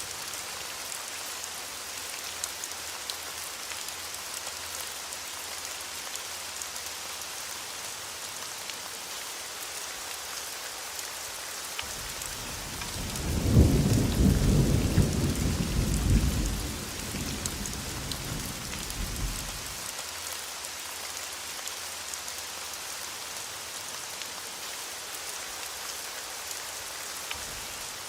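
Steady rain hissing, with a roll of thunder about halfway through: the rumble comes in with a sharp crack, stays strong for a few seconds, then fades out over several more.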